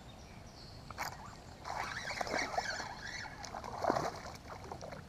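A sharp knock about a second in, then about three seconds of irregular splashing, rattling and scraping as a just-caught bass is handled at the side of a kayak.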